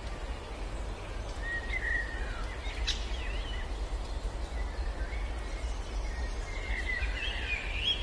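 Songbirds chirping and calling in short phrases, a few times and busiest near the end, over a steady low rumble.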